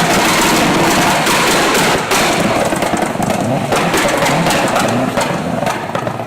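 Vehicle engine revving hard through a loud, free-flowing exhaust, its pitch rising and falling again and again, with sharp cracks throughout.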